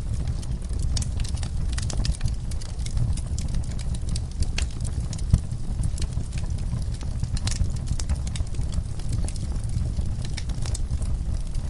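Wood fire crackling, with scattered sharp pops and one louder pop about five seconds in, over a steady low rumble. Horses can be heard shifting in a stall.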